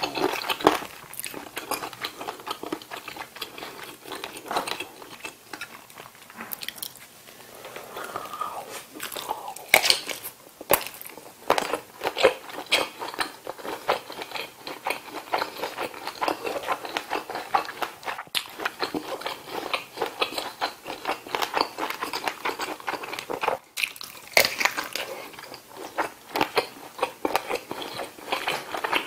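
A person chewing and biting into kielbasa sausage close to the microphone: a dense run of small wet clicks and smacks, with a few louder bites.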